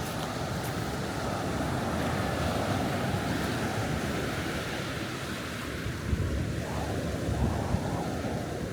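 Surf washing on the shore at high tide, with wind buffeting the microphone in a low rumble that gusts louder a few times from about six seconds in.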